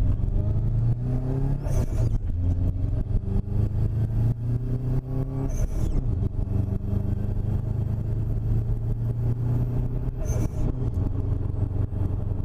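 Subaru WRX turbocharged flat-four engine and exhaust accelerating through the gears: the engine note climbs twice with a short break between, then holds steady while cruising.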